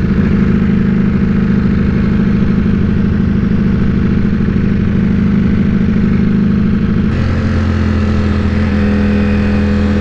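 Ducati Panigale V4S's 1103 cc V4 engine running steadily under way on the road. About seven seconds in, the engine note changes abruptly to a different, lower and steadier pitch.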